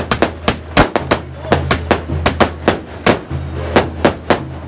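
Fireworks going off in a rapid, irregular string of sharp bangs, several a second, over low, steady background music.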